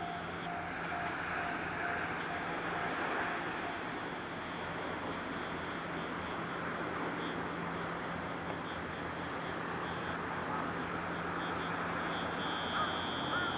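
JR Kyushu 811 series electric train running away into the distance, a steady rolling noise of wheels on rail. A repeating dinging tone stops about half a second in, and a high steady tone grows louder near the end.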